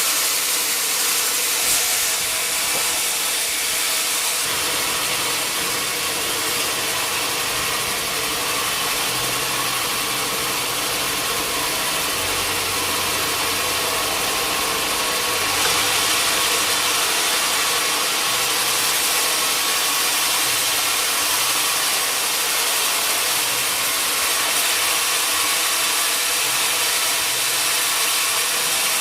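Sawmill machinery running steadily: a dense hiss over a low hum that steps up and down in pitch.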